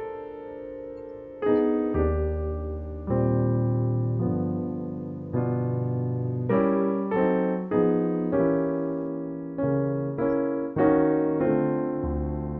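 Solo piano music: slow chords with deep bass notes, each struck and left to ring and fade before the next.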